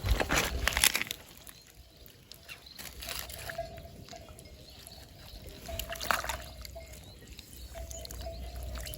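Shallow water sloshing and trickling as hands feel through it for snails, loudest in the first second, with a few smaller splashes about three and six seconds in.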